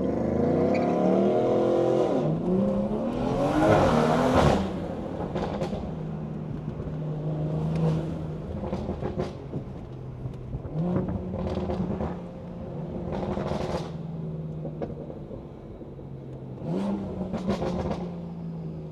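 BMW 340i's B58 turbocharged inline-six with a loud aftermarket exhaust, revving hard under acceleration: the pitch climbs steeply and drops twice in the first few seconds. It then settles into a steady cruising drone, with another brief rev near the end.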